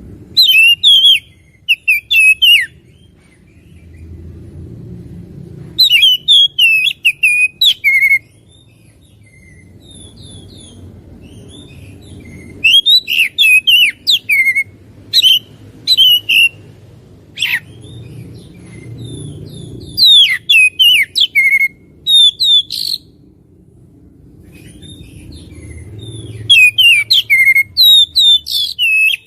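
Oriental magpie-robin (kacer) in full song: loud phrases of rapid, sweeping whistled notes, coming in bursts of one to three seconds with short pauses between, over a low background hum.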